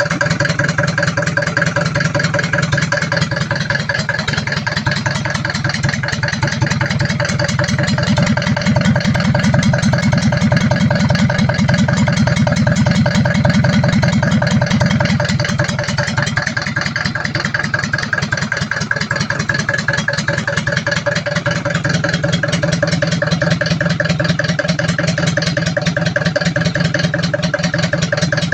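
Engine of a homemade tractor running steadily with a rapid even pulsing beat, picking up a little for several seconds before the middle and then settling back.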